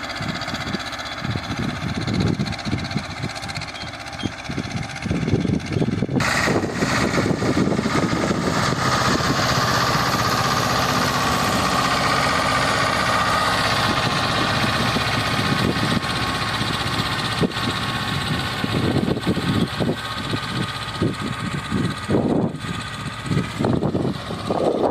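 Escort 325 tractor's diesel engine running, getting louder and brighter about six seconds in and staying there.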